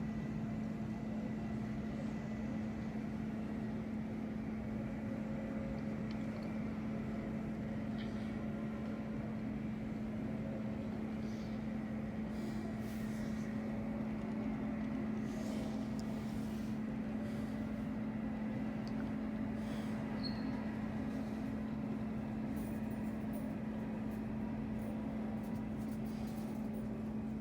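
Steady mechanical hum with one constant low tone, unchanging throughout, and a few faint clicks.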